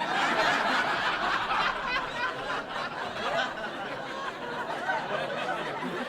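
A crowd of many people laughing and chattering together, cutting in suddenly out of silence.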